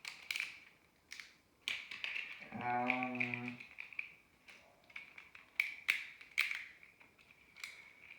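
Scattered light plastic clicks and taps of Beyblade tops and parts being handled. About three seconds in, a low steady tone holds for about a second.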